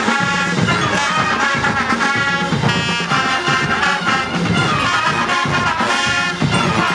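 Marching band brass playing loud, punchy repeated chords over a steady drum beat.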